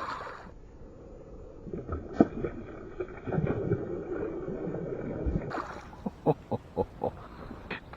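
Water splashing and handling noise at a small boat as a hooked bass is brought in, with a quick run of sharp knocks near the end.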